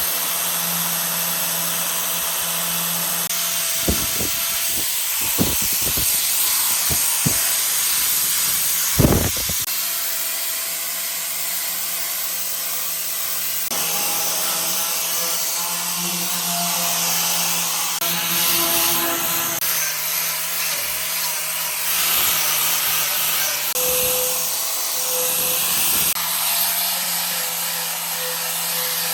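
A power tool running steadily with a hiss, with a few sharp knocks about four to nine seconds in.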